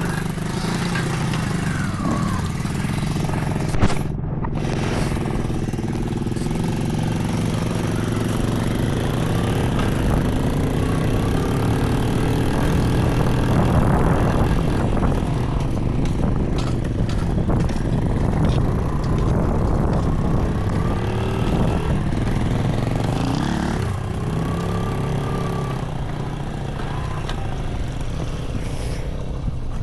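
Small kick-started motorbike engine running, its revs rising and falling now and then, with a brief break about four seconds in.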